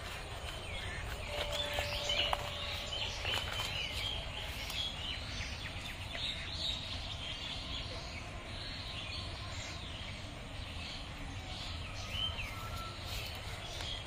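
Small birds chirping and calling over and over, many short rapid chirps, over a steady low background rumble.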